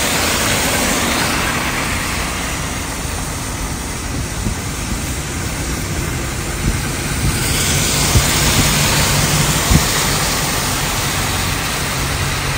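Car on a rain-soaked road in heavy rain: a loud, steady hiss of rain and tyre spray. A low engine hum comes in for a few seconds past the middle, and there are occasional sharp knocks.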